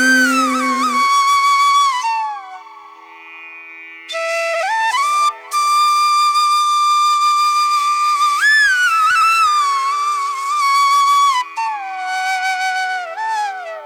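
Background music: a flute playing a slow melody of long held notes with slides and ornaments, over a faint steady drone, pausing briefly about two seconds in.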